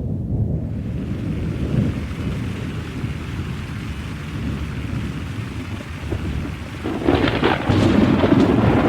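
Thunderstorm sound effect: a low, steady rumble of thunder with rain. About seven seconds in it gets louder and the rain becomes heavier and hissier.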